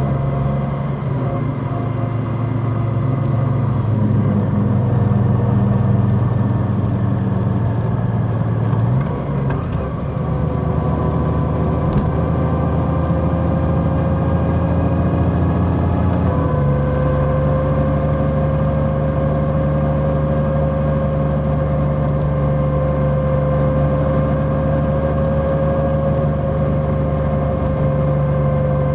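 Large motorcycle engine running steadily while riding. Its note shifts twice, about a third of the way in and again a little past halfway, as the rider changes speed or gear.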